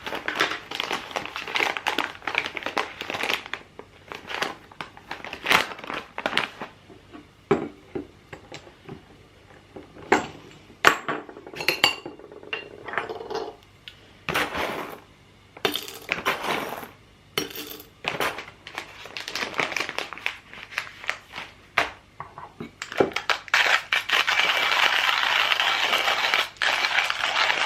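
Dishes and cutlery clinking and clattering as they are handled, in many sharp knocks. From about two-thirds of the way in, a steady rushing noise joins them and runs on.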